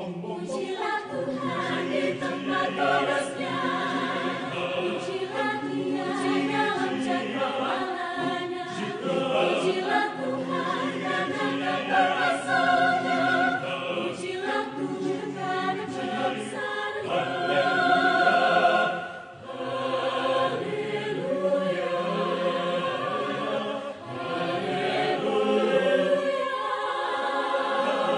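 Mixed adult choir of men's and women's voices singing in parts, with sustained chords, dropping off briefly twice, about two-thirds of the way through and again a few seconds later.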